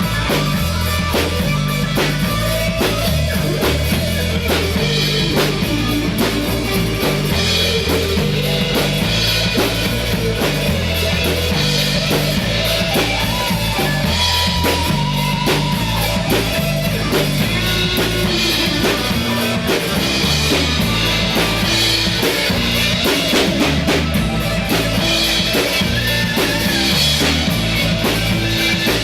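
Blues-influenced rock song by a three-piece band playing: drum kit with kick drum keeping a steady beat under bass and electric guitar.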